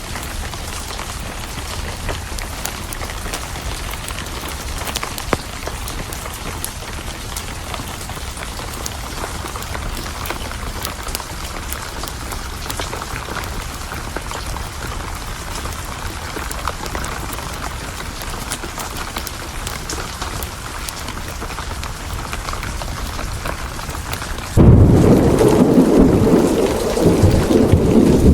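Steady rain with scattered sharp crackles from a wood fire. Near the end a sudden, loud thunderclap breaks in and rolls on as a deep rumble.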